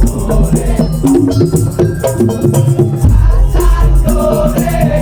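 Madurese tong-tong percussion ensemble playing loudly: dense, rapid strikes on bamboo slit drums and rattling percussion over a heavy low beat, with a melody line running through it.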